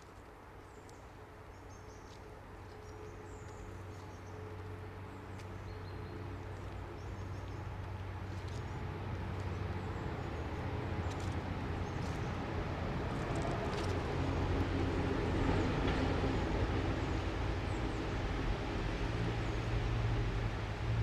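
A motor vehicle's engine and tyres approaching along the road, growing steadily louder over the first two-thirds and staying loud to the end, with faint bird chirps early on.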